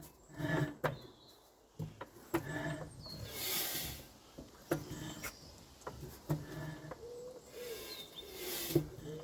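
Scattered knocks, clicks and rubbing from hands and tools working over the 1931 Ruston engine's open crankcase while its crank and gears are being oiled. There are two short hisses, about three and eight seconds in.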